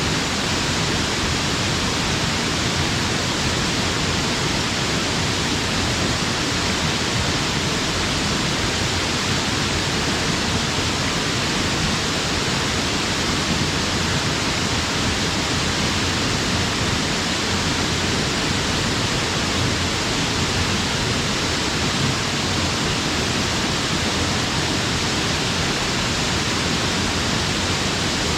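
Waterfall plunging steadily: a continuous, even rush of falling water.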